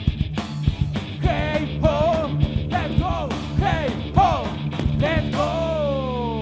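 Live punk rock band playing loud: drums pounding under a riff of repeated short notes that bend up and fall back. Near the end, one long note slides steadily down in pitch.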